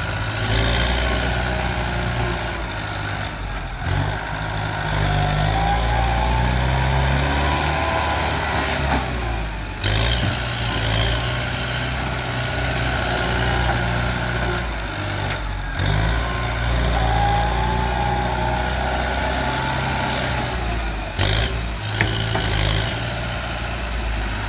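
Kubota M108S tractor's diesel engine working as it pushes dirt, swelling and easing in pitch. Twice a whine rises and falls, and a few short knocks come through.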